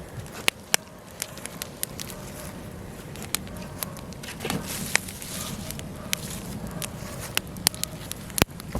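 Wood logs burning in a fireplace: sharp, irregular crackles and pops over a low steady rumble of flames, with a brief soft whoosh of flame about halfway through.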